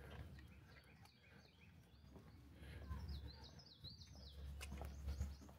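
Faint bird chirping, with a quick run of up-and-down whistled notes about three seconds in, over a low outdoor rumble.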